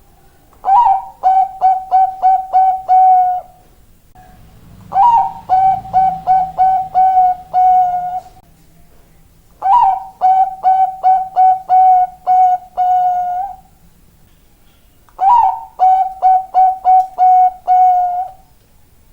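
Zebra dove (Bangkok-type perkutut) singing: four phrases of staccato cooing. Each phrase opens with a rising note, runs quickly through about six or seven short clipped notes and ends on a longer held note, with a quiet pause of a second or two between phrases.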